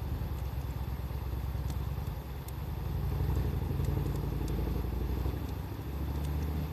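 Wood fire crackling with scattered small pops, under a louder low rumble that swells about halfway through and again near the end.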